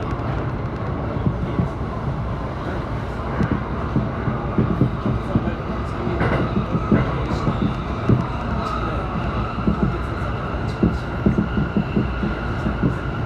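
JR Saikyō Line commuter train running at speed, heard from inside the carriage: a steady rumble with rapid wheel knocks over the rail joints, and a faint steady whine that comes in about halfway through.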